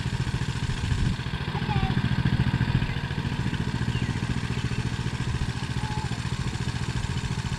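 Coleman mini bike's small single-cylinder engine idling with a fast, steady firing pulse. It comes up a little for a second or so about two seconds in.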